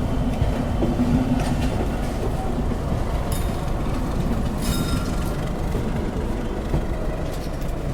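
Train running along the track: a steady low rumble of wheels on rails, with a few sharp clacks.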